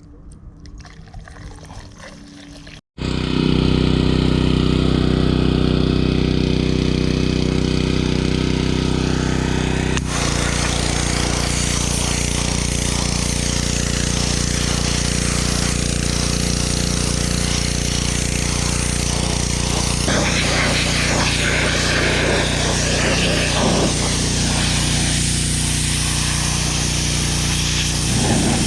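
A gasoline pressure washer's small engine running steadily from about three seconds in. Its note changes about ten seconds in, and a hissing spray joins it from about twenty seconds.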